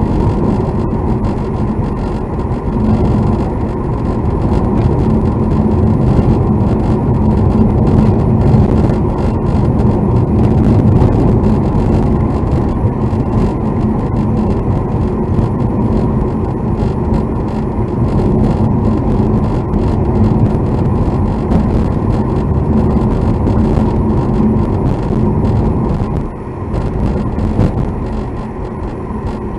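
Road and engine noise inside a moving car's cabin, with a steady low hum running through it; the noise drops somewhat near the end.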